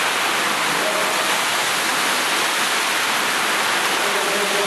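Heavy rain pouring down on a street, a steady, even rush without breaks.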